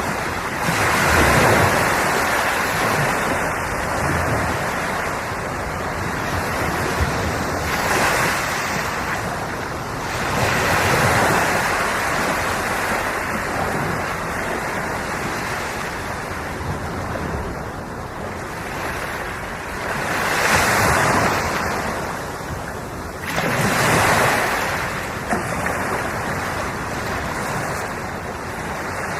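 Ocean waves breaking and washing on the shore, a steady wash of surf with louder surges every few seconds.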